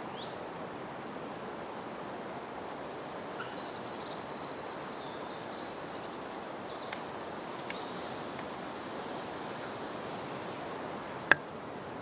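Forest ambience: birds calling with short high chirps and quick trills over a steady rushing background. A sharp click about eleven seconds in is the loudest sound.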